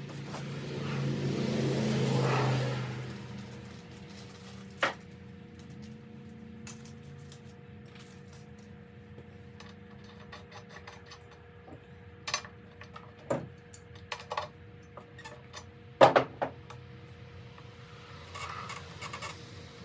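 Tools and metal parts clinking and knocking, with scattered sharp clicks, while a spark plug is swapped on a Stihl BR340 leaf blower. Over a steady low hum, a louder rushing sound swells and fades over the first three seconds.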